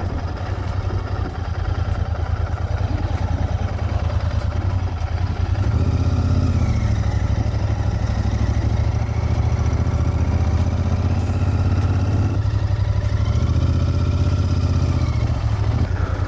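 Cafe racer motorcycle engine running under way, a steady rapid pulsing exhaust note whose pitch rises and falls twice as the bike speeds up and eases off.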